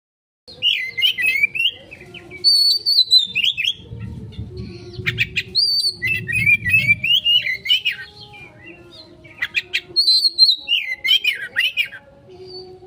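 Oriental magpie-robin (kacer) singing a fast, varied song of whistled phrases, trills and scratchy chatter in the choppy 'konslet' style, with short gaps between phrases.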